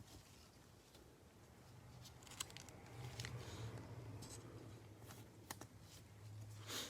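Faint handling of trading cards and cardboard packaging: scattered light clicks and rustles, with a louder crinkle near the end.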